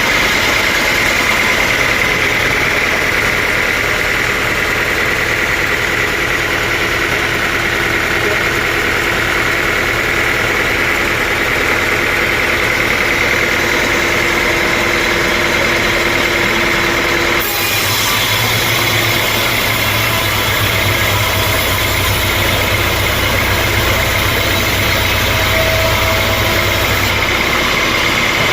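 Sawmill machinery running steadily and loudly: a machine hum with a constant high whine. About two-thirds of the way through the sound changes abruptly and a deep low hum grows stronger, then eases near the end.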